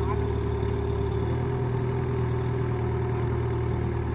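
Tractor diesel engine running steadily at low revs, a low even drone.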